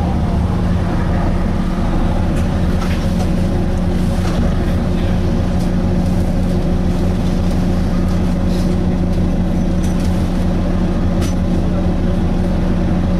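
Volvo B9TL double-decker bus's diesel engine and drivetrain heard from inside the bus, a steady drone holding one pitch, with scattered faint clicks and rattles.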